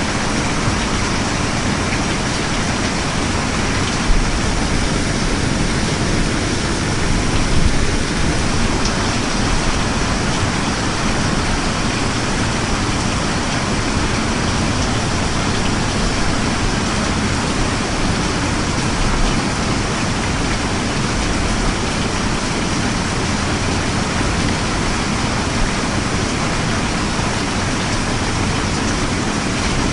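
Steady heavy rain, a dense even hiss with a low rumble beneath it, a little louder for a moment about four seconds in and again around seven to eight seconds in.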